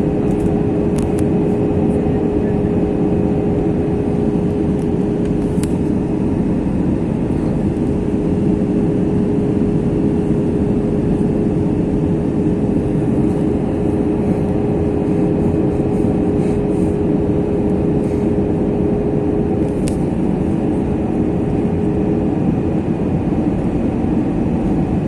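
Steady roar of an Airbus A321 airliner heard from inside the passenger cabin: engine and airflow noise with a steady hum riding on it that stops near the end.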